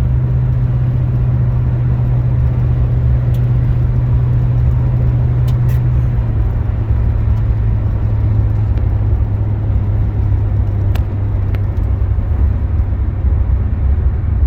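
A 1976 Oldsmobile Cutlass Salon's 455 Rocket V-8 and tyres heard from inside the cabin while cruising: a steady low engine drone over road noise, the drone dropping slightly in pitch about six seconds in.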